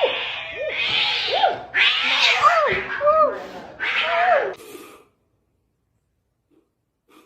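Domestic cat meowing repeatedly, a run of short calls that rise and fall in pitch, stopping about five seconds in.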